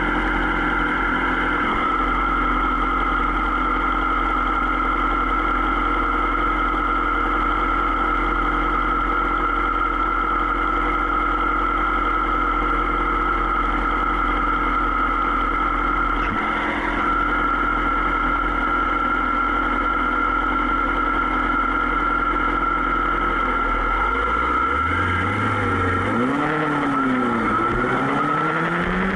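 Superbike engine running steadily at cruising speed, holding one pitch for most of the time; in the last few seconds the pitch rises and falls several times as the revs change.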